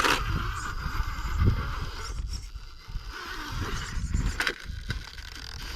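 Electric motor and gears of a shaft-drive RC rock crawler whining as it backs up and crawls, under a heavy low rumble of wind buffeting the microphone.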